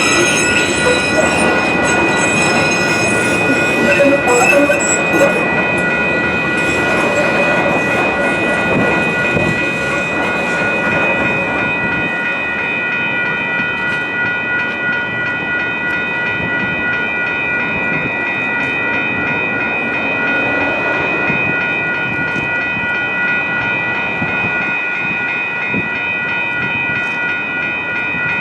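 A train rolling through a grade crossing: a steady rumble with wheel clicks over the rail joints, under several steady high-pitched ringing tones. The rumble eases a little about halfway through.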